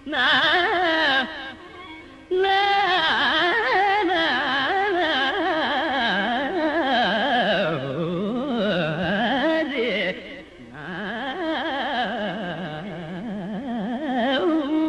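Carnatic raga alapana in Mohanam: a wordless vocal melody whose pitch wavers rapidly in fast oscillating ornaments (gamakas), with brief pauses about a second in and about ten seconds in.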